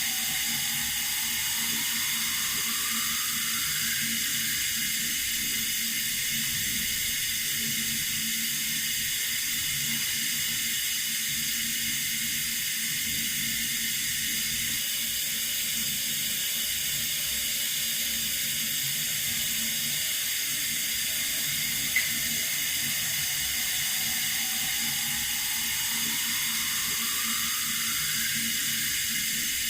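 Water running in a steady hissing rush. A single faint click comes about 22 seconds in.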